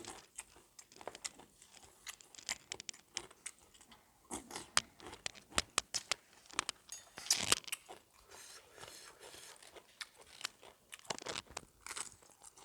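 A person chewing and crunching a mouthful of spicy seafood papaya salad, with irregular crisp crunches throughout, loudest about seven seconds in.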